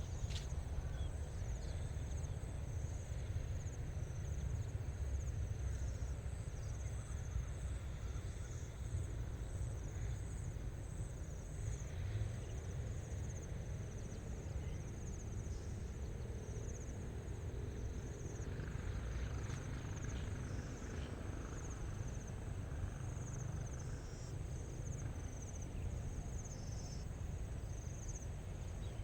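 Insects chirping in the grass, a continuous high-pitched pulsing trill, over a steady low rumble.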